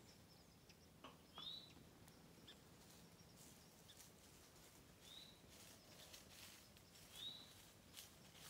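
Quiet woods with a bird giving a short, high, arched call three times, a few seconds apart, over faint scattered clicks and rustles.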